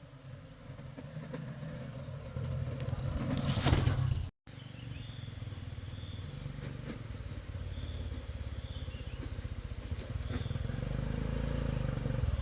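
A small engine running with a fast, even low pulse, with insects droning high in the background. The sound cuts out briefly about four seconds in, then the engine carries on.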